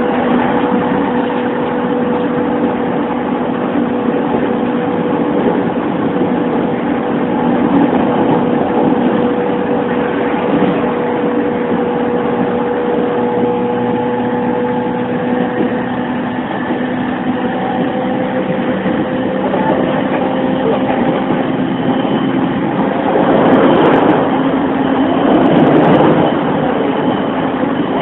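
An E231 series 1000-number electric train running at speed, heard from inside the car: a steady mix of wheel-on-rail rumble and motor hum with even tones. The noise swells louder for a few seconds near the end.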